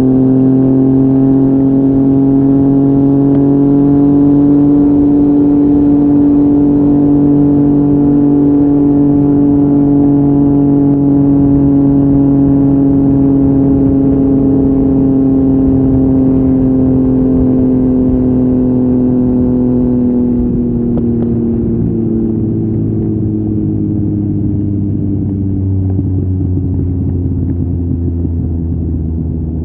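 Yamaha MT-09's 847 cc inline-three engine through an Akrapovic exhaust, pulling at steady revs while riding. After about twenty seconds the revs fall away gradually as the throttle is eased off.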